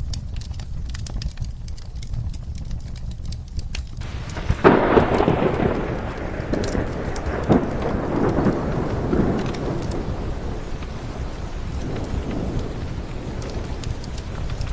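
Steady rain with fire crackling. About a third of the way in a clap of thunder breaks suddenly and rolls away over several seconds, with a fainter rumble later.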